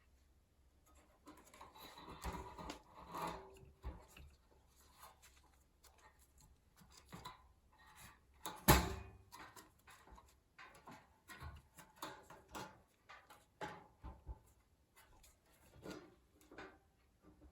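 Irregular light knocks, clicks and rubbing, as of objects being handled, with one sharp, much louder knock about nine seconds in.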